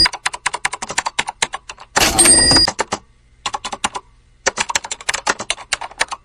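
Rapid runs of small sharp clicks and taps, like typing. Two identical short noisy bursts carrying a few high steady tones come at the start and again about two seconds in, with a brief lull just after three seconds.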